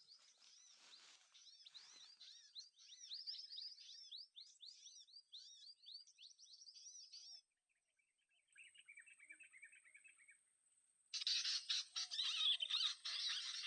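Small birds chirping in rapid runs of quick, high chirps. After a short pause and a softer run, much louder, dense chirping starts suddenly about eleven seconds in.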